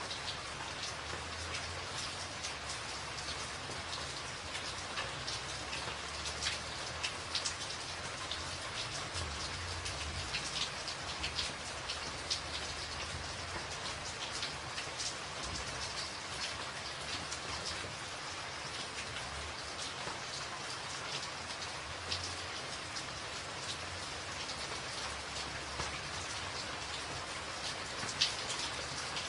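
Steady rain on a tin roof: a constant hiss with many individual drops ticking sharply on the metal.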